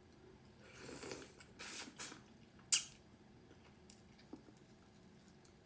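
Close-up mouth noises of someone eating soft millet dhido with curry: a few wet slurping, squishing sounds in the first two seconds, then a sharp smack near three seconds and a couple of faint clicks.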